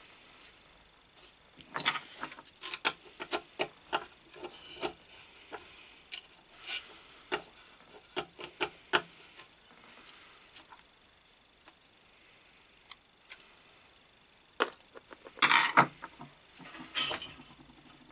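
Hand tools working on small metal and plastic parts: scattered sharp clicks and taps with short scraping rubs every few seconds, the loudest cluster of knocks about fifteen seconds in.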